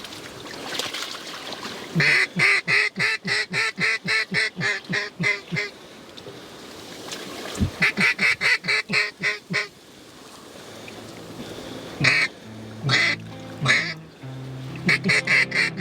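Hen mallard quacking in long, fast, evenly spaced runs of about five quacks a second, the calling cadence used to bring circling ducks in. There are three runs with a few single quacks between them. Low background music comes in about two-thirds of the way through.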